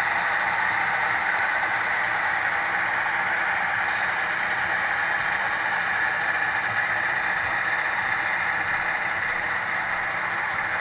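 HO scale ET44AC (Tier 4) model locomotives with ESU LokSound decoders playing their diesel engine sound through small onboard speakers as they roll past, a steady, thin hum. It eases slightly near the end as the units move away.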